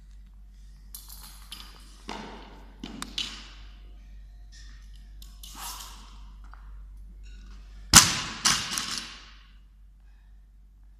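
Thuds and clatter of gym equipment during a workout. The loudest is a sharp impact about eight seconds in, followed by about a second of rattling.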